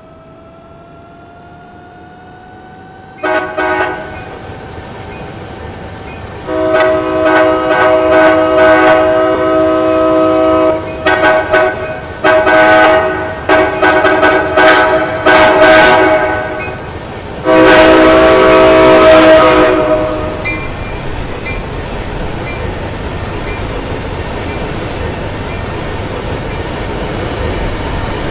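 Passing train sounding its multi-chime air horn: a short blast, then several long blasts with brief breaks between them. After that comes the steady rumble of the train rolling by.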